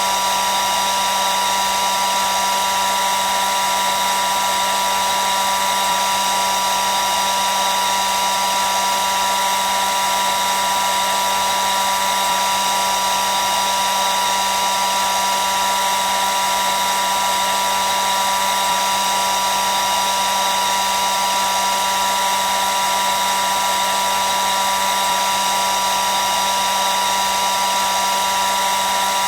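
Hair dryer running continuously at a steady speed: an even whir of rushing air with a steady motor whine, unchanging throughout.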